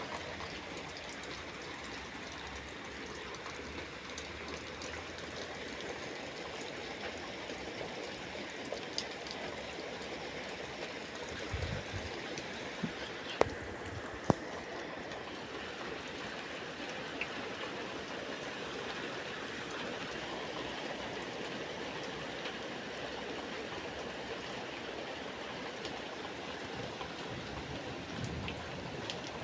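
Heavy rain falling steadily, with two sharp clicks about halfway through.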